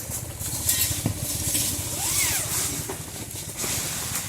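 Strong blizzard wind gusting and rushing, with a heavy low rumble of wind buffeting the microphone.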